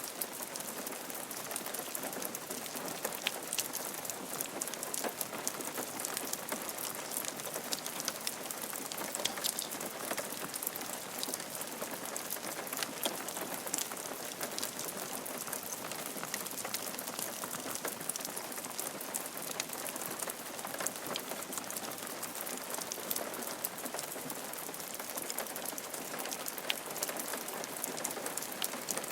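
Steady rain falling on a roof, a constant hiss with the many small ticks of individual drops striking.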